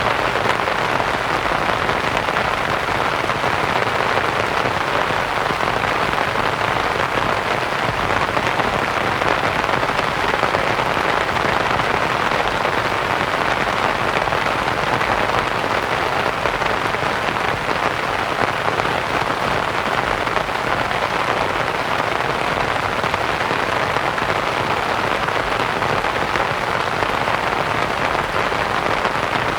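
Steady rain pattering on a canvas tent, mixed with soft white noise, an even unbroken hiss.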